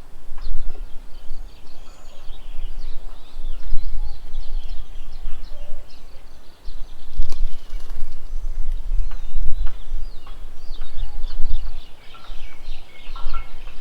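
Several birds chirping and calling over one another in quick, overlapping notes, over a loud, fluctuating low rumble.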